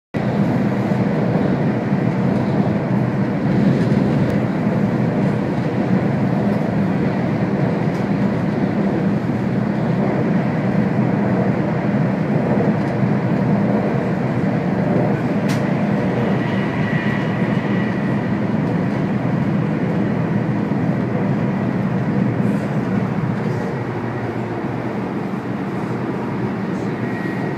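Chinese high-speed train running at a steady speed: a constant low rumble and rushing noise that keeps an even level throughout, with a faint high whine briefly about two-thirds of the way through.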